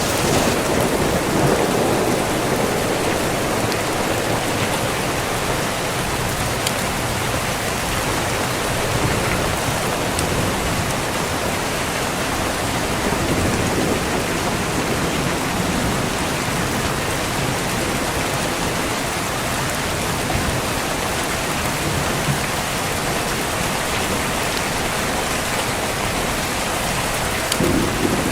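Heavy rain pouring steadily onto the ground and road in an even hiss. A deeper rumble swells in near the end.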